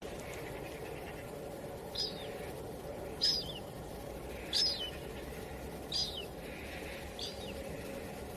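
A small bird calling five times, roughly once every second and a half, each a short high note sliding downward, over a steady wind hiss.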